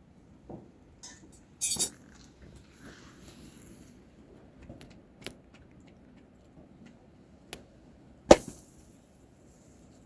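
Scattered clinks and knocks of kitchen utensils and dishes: a short rattle just under two seconds in, a few light taps, and one sharp knock near the end, the loudest.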